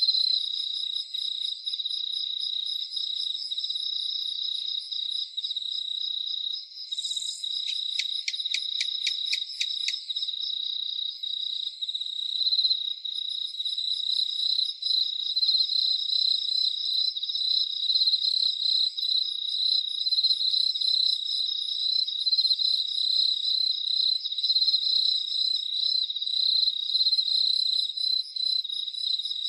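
A dense chorus of crickets chirping without pause, a high, rapidly pulsing trill. Between about seven and ten seconds in, a quick run of about a dozen sharp clicks, roughly five a second, sounds over it.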